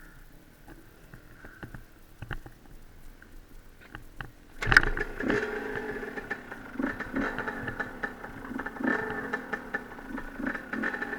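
Dirt bike engine firing up suddenly about four and a half seconds in, after a few faint clicks, then running with an uneven, pulsing beat.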